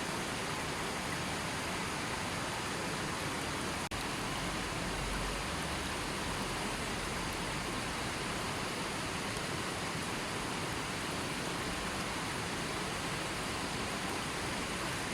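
River water flowing steadily over rocks, a constant even rush of running water with a brief dropout about four seconds in.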